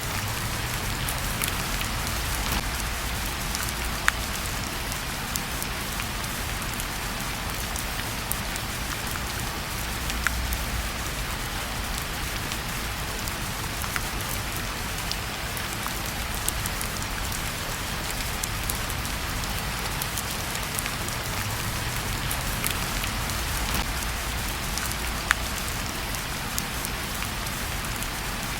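Steady rain falling, with a few sharp pops from a wood fire crackling in a fireplace.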